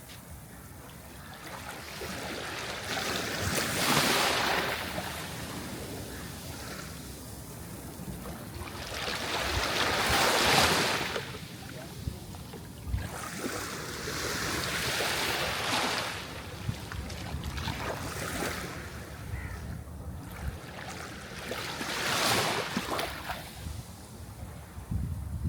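Sea waves breaking, their hiss swelling and fading four times, roughly every six seconds, with the loudest surge about ten seconds in.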